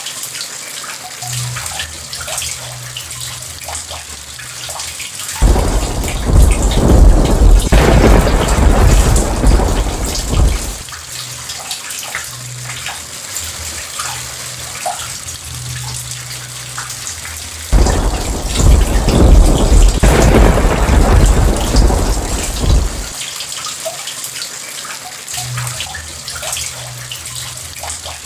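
Steady heavy rain with two long rolls of thunder. Each starts suddenly and rumbles for about five seconds, the first about five seconds in and the second just past the middle.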